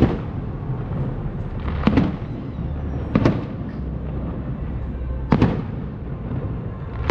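Fireworks exploding overhead: four sharp bangs, about every one to two seconds, each echoing briefly, over a continuous low rumble of the display.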